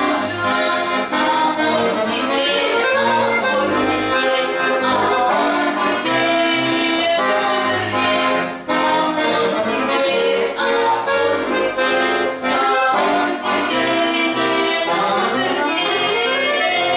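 Accordion playing a tune in full chords over short left-hand bass notes, with a brief break about halfway through and a fast upward run of notes near the end.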